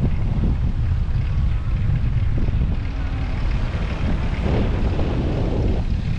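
Wind buffeting a GoPro's microphone while cycling: a loud, steady low rumble with no clear separate source.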